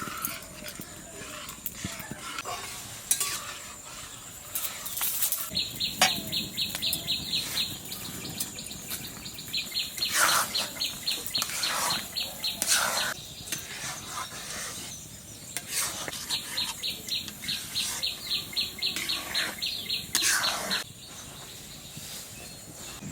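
Metal utensil stirring and scraping in a cooking pot, with scattered knocks and runs of quick, regular clicks.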